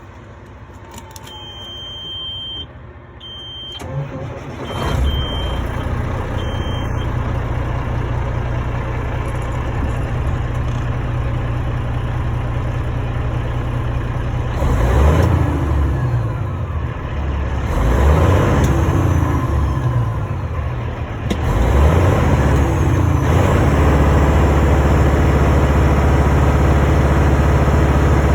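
Diesel engine of a 2003 Kenworth T800B winch truck started up after a few short beeps, catching about five seconds in and settling into a steady idle. It is revved three times in the second half and then held at a faster idle.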